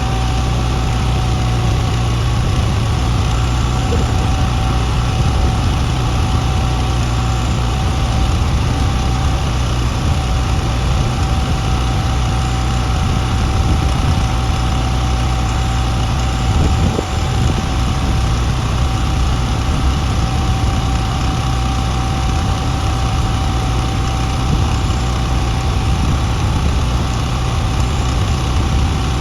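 Heavy-equipment engine idling steadily, a deep even rumble with a thin steady whine above it.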